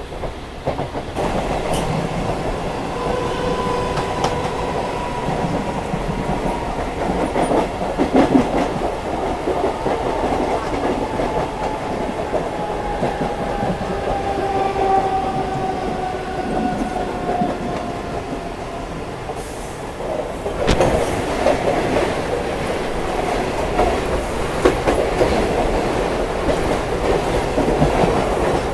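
Mumbai suburban local (EMU) train running at speed, heard from its open doorway: a steady rumble with wheels clicking over rail joints and faint whines that slowly fall in pitch. About two-thirds of the way through the clatter grows louder as another local train passes close on the next track.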